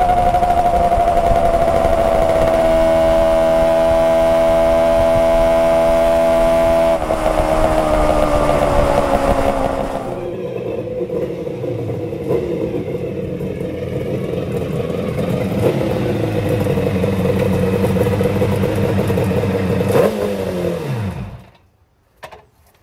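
Home-built four-cylinder two-stroke Kawasaki S2 350 engine running at steady high revs under way with a buzzy note, its pitch easing down and stepping lower about seven seconds in. After a cut it runs at lower revs as the bike is ridden in. About twenty seconds in it is blipped once, then switched off, its note sweeping down to nothing.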